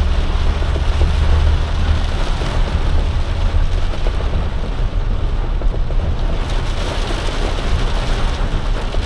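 Heavy rain beating steadily on a box truck's cab, with the truck's engine and road noise rumbling low underneath, heard from inside the cab. The low rumble is strongest for the first two seconds.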